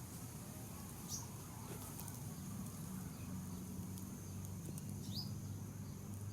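A fly's wings buzzing as a faint steady low hum, which grows stronger after about two seconds. Two short high chirps come about a second in and about five seconds in.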